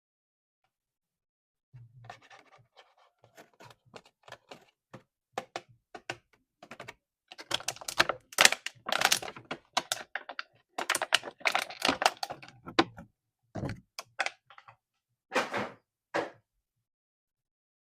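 Hands handling plastic parts and packaging, making irregular clicks, taps and short rustles. The sound begins about two seconds in and is busiest in the middle.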